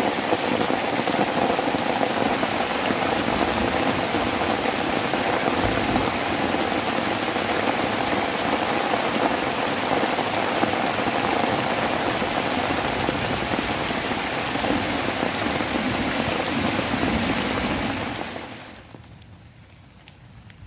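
Heavy rain drumming steadily on a plastic tarp shelter. The sound fades out sharply near the end, leaving much quieter background.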